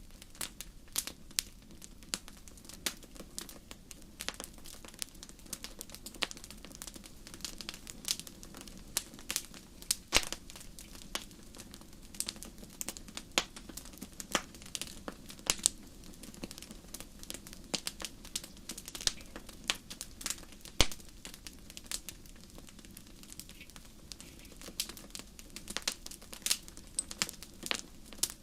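Wood fire burning in a fireplace, crackling with frequent irregular sharp pops over a low steady background.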